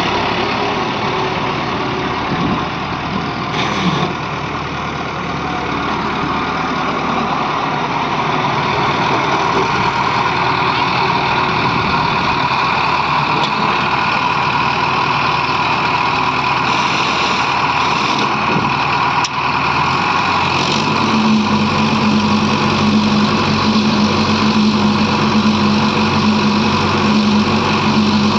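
Diesel engines of a working JCB 3DX backhoe loader and tractor running steadily. About three-quarters of the way through, a steady engine note comes in louder.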